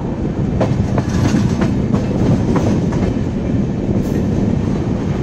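Indian Railways express train with LHB coaches running at speed: a steady, loud rumble of wheels on the rails, with a run of sharp clickety-clack clicks through the first half.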